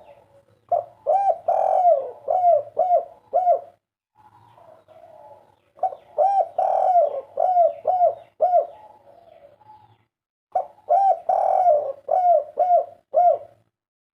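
Spotted dove (tekukur) cooing: three full song phrases about four seconds apart, each a longer coo followed by several short, quick coos, with softer murmured cooing between phrases.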